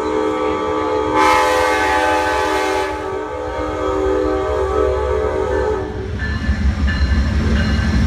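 Amtrak P42DC locomotive's horn sounding one long, steady chord, louder about a second in and cutting off about six seconds in; the low rumble of the train rolling into the station follows.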